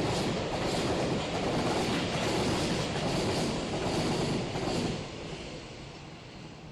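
A container freight train's wagons run past with a steady rumble and regular clacks of wheels over rail joints. About five seconds in, the end of the train goes by and the sound drops to a fading rumble.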